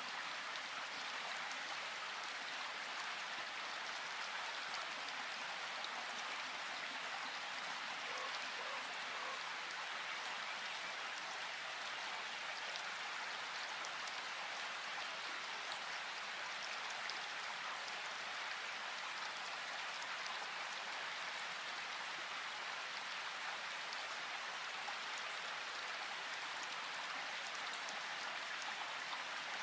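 Flowing river water rushing in a steady, unbroken wash.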